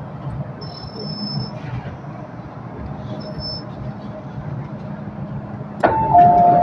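Hong Kong MTR train in motion: a steady low rumble with two brief high wheel squeals in the first seconds. About six seconds in, a two-note falling chime sounds twice over the train's public address.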